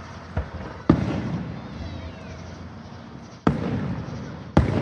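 Fireworks shells bursting overhead: four sharp booms, a small one and then a loud one about a second in, and two more close together near the end, each trailing off in a rolling echo.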